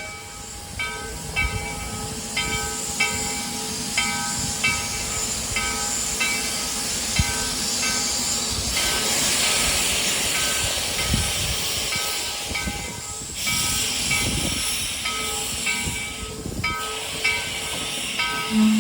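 Nevada Northern Railway's ex-Kennecott steam locomotive No. 81, a Baldwin 2-8-0, backing up with its bell ringing steadily about once a second. A broad rush of steam hisses out through the middle, and a short, loud low tone sounds near the end.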